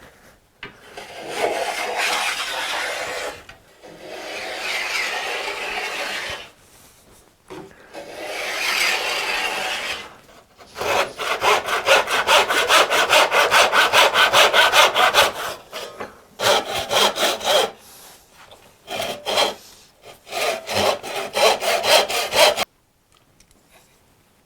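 Hand saw cutting wood: a few long, slow strokes, then runs of fast, short strokes at about six a second with brief pauses between them, stopping suddenly near the end.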